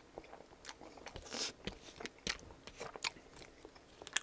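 Close-miked chewing and wet mouth sounds of eating a cheese-covered chicken enchilada, with scattered sharp smacks and clicks and one louder burst about a second and a half in.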